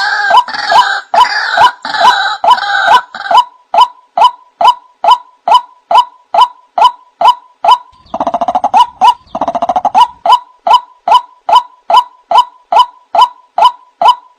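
White-breasted waterhen (ruak-ruak) lure call: a loud sharp note repeated about two and a half times a second. It is overlapped at first by a second, higher call, and a harsh rasping stretch comes about eight seconds in.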